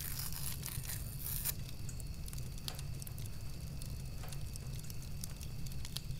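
Paper photograph burning: fire crackling with many scattered sharp ticks over a steady low rumble, with a brighter hiss in the first second or so.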